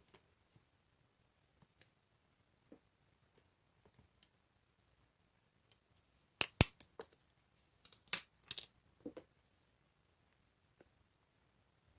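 A few sharp clicks and taps: a quick cluster about six and a half seconds in and another about eight to nine seconds in, with faint scattered ticks between.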